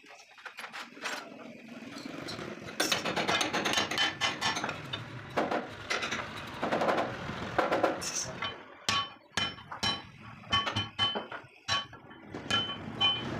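A hammer striking steel: sharp, irregular blows, each ringing briefly with a metallic tone, spaced out more clearly from about eight seconds in. Before that there is a denser stretch of clatter.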